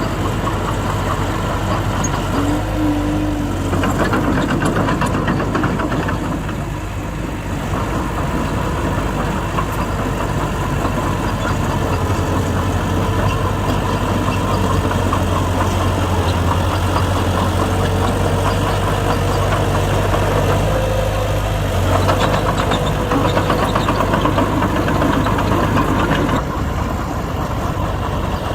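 Heavy diesel engines of earthmoving machinery running steadily with a low drone. Rougher clattering passages swell a few seconds in and again near the end.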